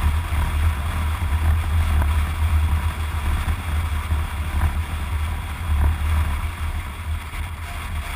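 Wind buffeting the microphone on a moving motorcycle, a heavy uneven rumble over the engine and road noise.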